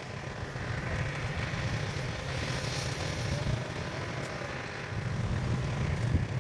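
A heavy machine's engine running steadily, a low rumble with a noisy haze over it.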